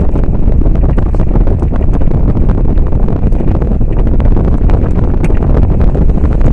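Wind buffeting the microphone on a moving motorboat, a loud steady low rumble mixed with the boat's engine and water noise.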